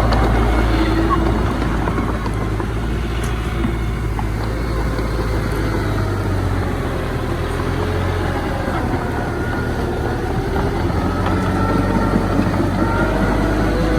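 Diesel engines of earthmoving machinery (dump truck and bulldozer) running steadily, with the engine pitch rising and falling as the machines work.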